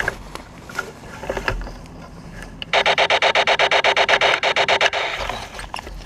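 Laser tag equipment's electronic sound effect: a loud rapid buzzing tone pulsing about ten times a second for a little over two seconds, starting about three seconds in and cutting off sharply; before it, rustling and light knocks of movement.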